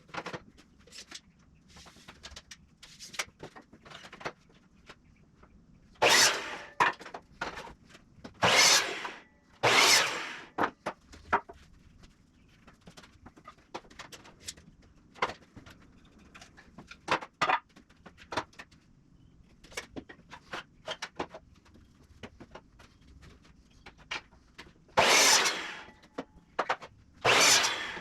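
Short bursts of a power tool working 2x4 lumber, five in all, with knocks and clatter of the boards being handled in between.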